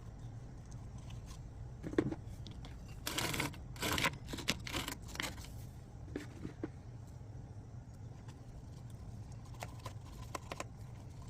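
A short stretch of rustling, crinkling and clicking handling noises about two to five seconds in, over a steady low hum.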